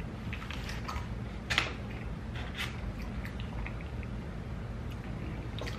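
Mouth sounds of someone tasting barbecue sauce on food: a handful of soft, wet clicks and smacks, over a steady low hum.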